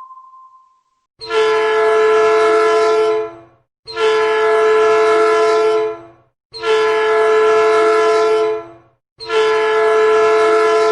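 A horn of the train-horn kind sounding four long, loud blasts of about two seconds each, with short gaps between them. A fading tone dies away just before the first blast.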